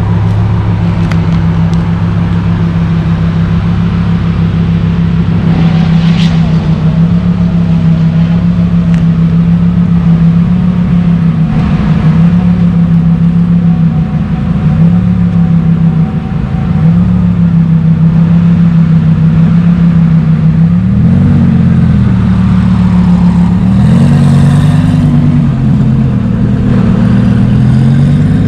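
Car engine running loud at low, steady revs, with a few brief lifts off the throttle. Near the end it gives several short rises and falls in revs.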